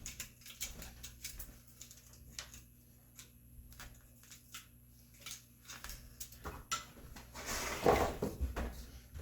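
Hand chisel working an angled mortise in red oak: scattered light taps and clicks of the steel in the wood, with a louder scrape about eight seconds in.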